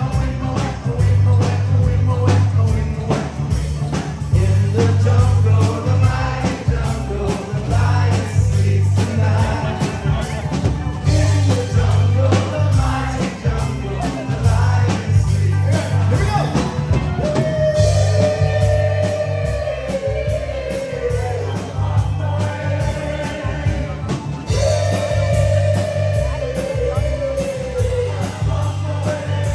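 Live band playing a rock song with a singer, with a strong steady bass line and guitar.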